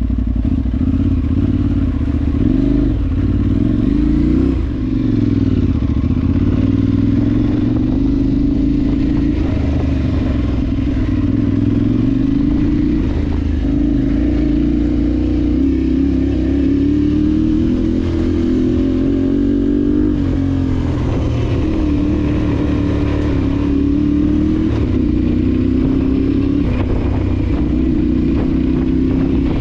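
Adventure motorcycle engine running under way off-road, its revs rising and falling as the throttle is worked, with sharp dips about four seconds in and again about two-thirds of the way through.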